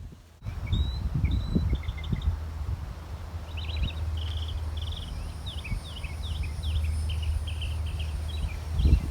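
A small songbird chirping in quick runs of short high notes and down-slurred calls, over a steady low rumble.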